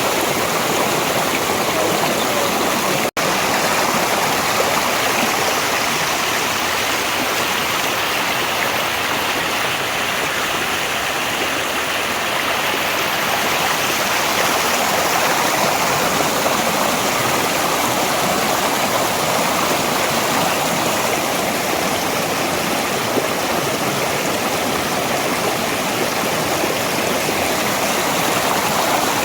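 Mountain valley stream flowing, a steady even rush of water. There is a split-second dropout about three seconds in.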